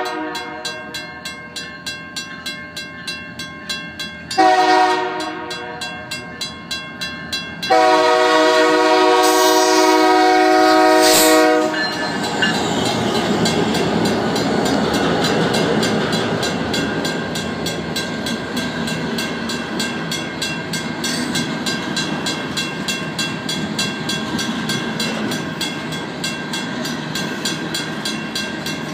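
A WCH mechanical crossing bell ringing with fast, even strokes while the BNSF diesel locomotive's air horn sounds a short blast about four seconds in and a long one from about eight to twelve seconds. Then the locomotives and hopper cars roll past close by, wheels clacking over the rail joints, with the bell still ringing.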